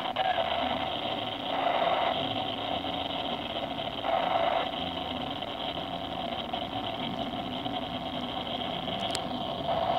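Freight train cars, covered hoppers, rolling past close by: a steady rumble and clatter of steel wheels on the rails, swelling louder briefly three times as the wheel sets go by.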